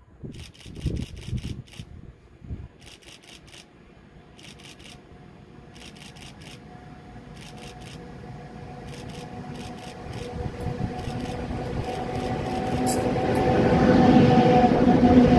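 ET22 electric freight locomotive hauling loaded coal wagons approaching and passing, with a steady hum that grows louder and peaks as the locomotive goes by near the end.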